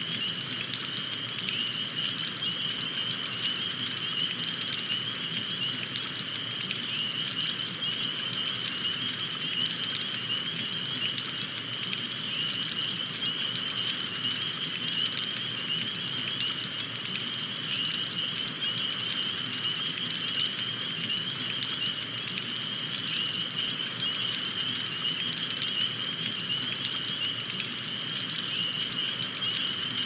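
Steady rain: a dense patter of drops over an even hiss, with a steady high-pitched hiss running through it.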